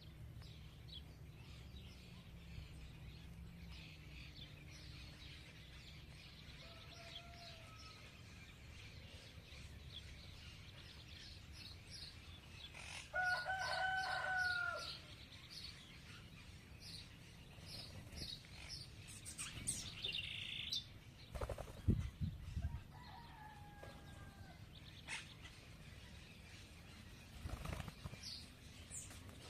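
Feeding birds chirping repeatedly in short high notes. Near the middle comes one longer pitched call of about two seconds, and later there are a couple of low thumps.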